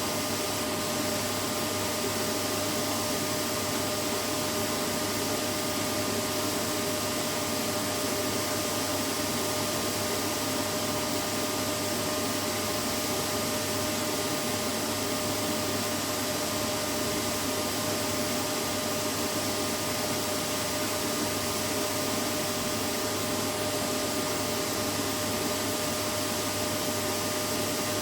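Vacuum cleaner running steadily: an even, unchanging rushing noise with a steady whine in it.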